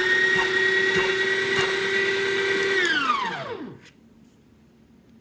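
Breville Barista Pro's built-in burr grinder motor running with a steady high whine, then spinning down and stopping about three seconds in. It is clearing the grounds retained in the grinder while the single-dose hopper lid is pushed down.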